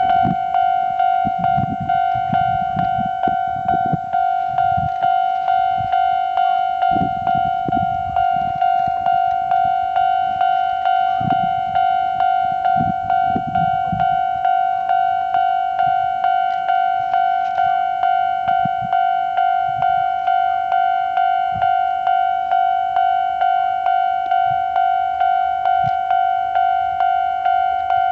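Japanese railway level-crossing alarm bell ringing: an electronic ding repeated about one and a half times a second, warning that a train is approaching.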